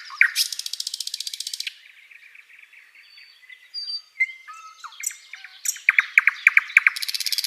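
Songbird known in Indonesia as sikatan londo, a flycatcher, singing: a fast, high buzzing trill, then a string of varied chirps and short whistles, a quick run of sharp repeated notes, and a second fast trill near the end.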